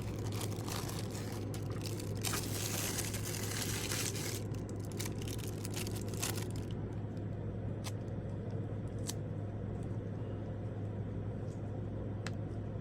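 Packaging being handled while unboxing: a few seconds of crinkling and rustling of wrapping from about two seconds in, then scattered small clicks and taps. A steady low hum runs underneath.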